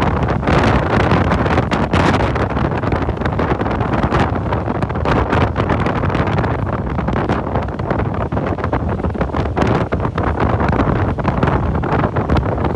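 Steady loud rushing noise with wind buffeting the microphone in frequent gusts.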